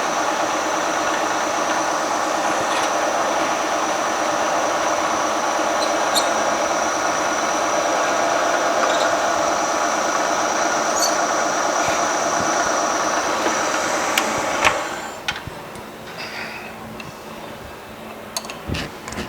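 Milling machine drilling into a very hard crankshaft to take heavy-metal balance slugs: a steady, dense cutting noise with a high whine. It cuts off abruptly about fifteen seconds in, and a few light clicks and a knock follow.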